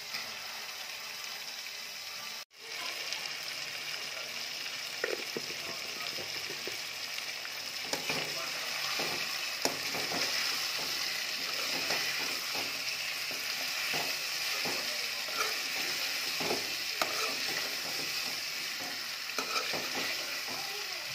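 Chicken and onions sizzling in hot oil in a steel pan, with the scrape and clink of a spatula stirring them from about five seconds in. The sound cuts out for an instant about two and a half seconds in.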